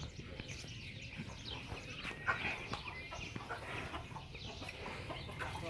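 Many short bird calls, clucks and chirps, overlapping over a low background rumble, with one brief knock about two seconds in.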